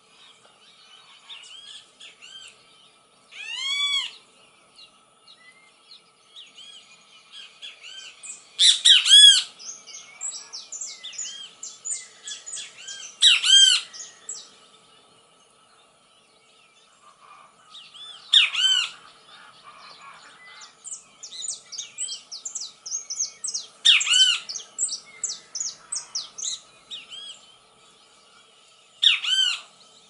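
Birds chirping and calling, several at once, with a louder arching call about every five seconds. A faint steady tone runs underneath.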